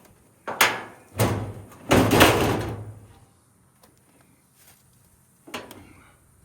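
Sheet-metal clothes dryer cabinet being tipped over: three heavy metallic bangs in the first three seconds, the last one ringing on for about a second, then a lighter knock near the end.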